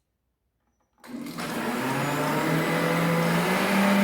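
Electric kitchen blender switched on about a second in, its motor whine rising in pitch as it spins up and then running steadily, mixing a liquid batter of egg, oil, milk and salt.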